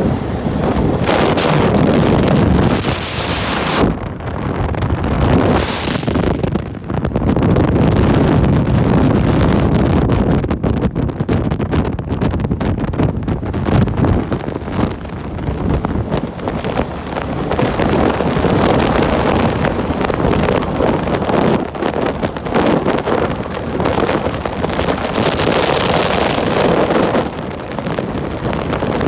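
Wind buffeting the microphone of a camera carried on a bike ride: a loud, rumbling rush that swells and dips throughout.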